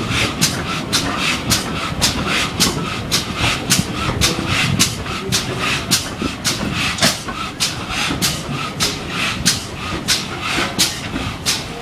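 Steam locomotive working under steam, its exhaust beats coming in an even rhythm of about three hissy chuffs a second.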